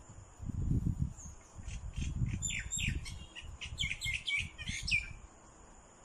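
Birds chirping, a quick run of short calls between about one and five seconds in, over a louder low rumble on the microphone, with a faint steady high tone behind.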